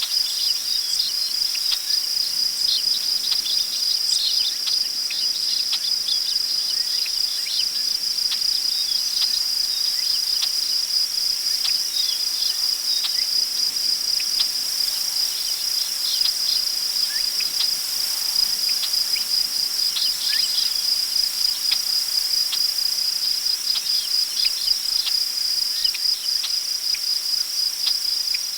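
Crickets trilling steadily at a high pitch in a constant chorus, with scattered short, high chirps over it.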